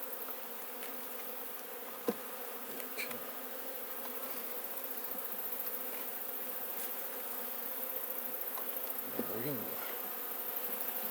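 Honeybees buzzing around an opened hive: a steady hum of many bees flying. A single sharp click comes about two seconds in.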